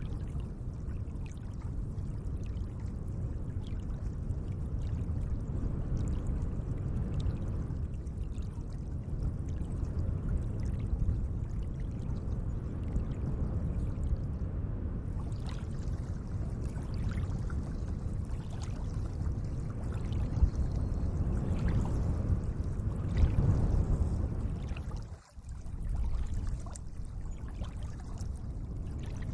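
Gentle lake water: a steady low wash of moving water with faint scattered small splashes. It dips briefly almost to nothing about 25 seconds in.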